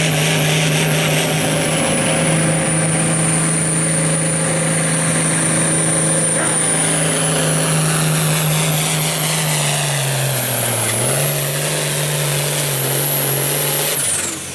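Turbocharged diesel farm tractor pulling a sled at full throttle, engine running steady with a high turbo whistle over it. The engine note sags briefly under load about ten seconds in, then recovers. Near the end the throttle is cut and the whistle falls away.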